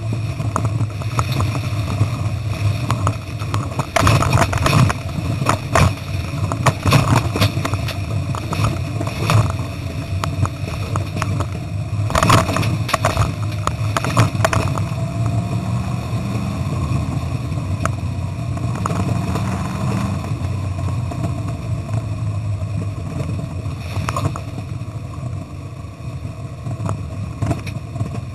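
Bowler Tomcat's 3.5-litre Rover V8 running hard under load, heard from inside the cab, with frequent sharp knocks and rattles through it. The sound is distorted because the engine noise overloads the camera.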